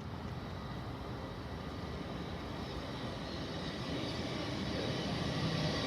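Five-car LNER Class 800 Azuma train approaching the platform: a steady hum with a faint high whine, growing gradually louder.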